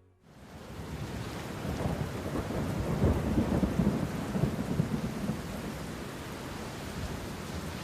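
Deep rolling rumble over a steady hissing wash, like thunder in rain. It swells about two seconds in and eases to a steadier rumble after about five seconds.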